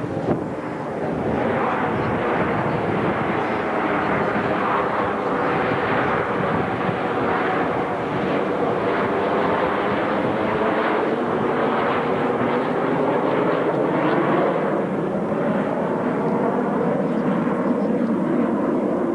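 Jet engine noise from a formation of F/A-18 Hornets flying past, a steady loud rush with faint tones that slowly shift in pitch.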